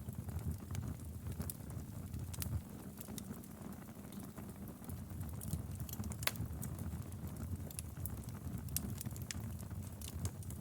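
Wood fire in a fireplace burning with a steady low rumble and irregular sharp crackles and pops, one louder pop about six seconds in.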